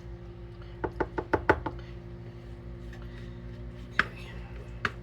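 A quick run of about six sharp clicks or knocks, then two single clicks, over a steady low hum.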